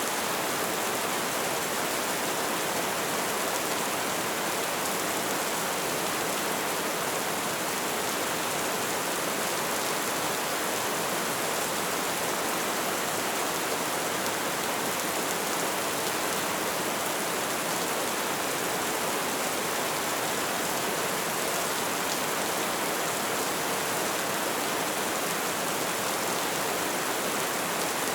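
Light rain falling in a steady, even hiss of many small drops.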